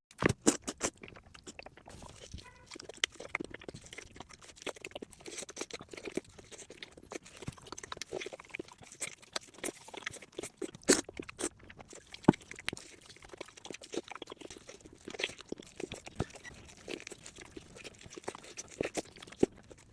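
A person chewing and crunching food, with many irregular sharp crunches and bites, a few louder ones about halfway through.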